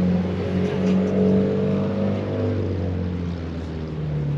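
A car engine running steadily, a low, even drone with no sharp changes.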